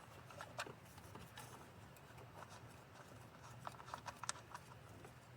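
Faint, scattered small clicks of a socket being turned by hand on a 10 mm coil pack bolt, a few light metal ticks spread over several seconds.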